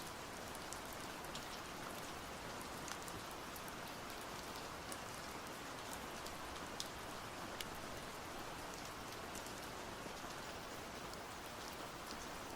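Steady rainfall, a soft even hiss dotted with small scattered drop ticks.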